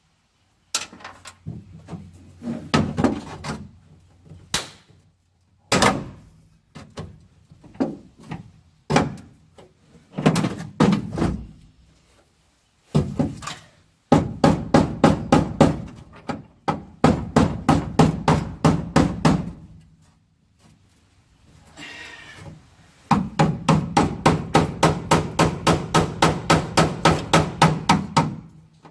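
Hand hammer blows on the sheet-steel seat pan as it is knocked loose from the floor at its spot welds. Scattered strikes come first, then two long runs of quick, even blows, about three or four a second, in the second half.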